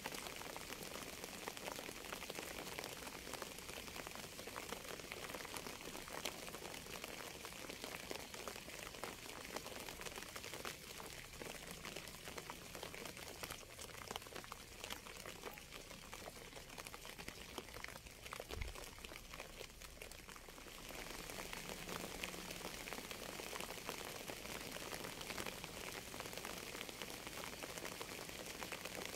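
Steady rain, a dense patter of many fine drops on a surface. It eases a little in the middle and picks up again about two-thirds of the way through.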